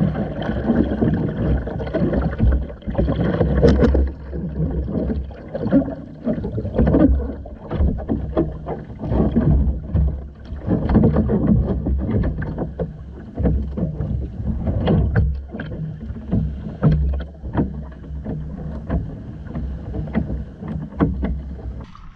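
Water sloshing and slapping against the hull of a Hobie Island sailing kayak under way, swelling in surges every second or two, with many sharp knocks and clicks and a steady low rumble underneath.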